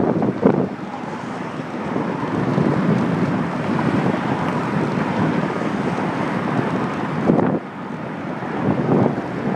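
Wind buffeting a handlebar-mounted phone's microphone on a moving bicycle, a steady rushing noise, with a couple of brief louder bumps just after the start and again at about seven seconds.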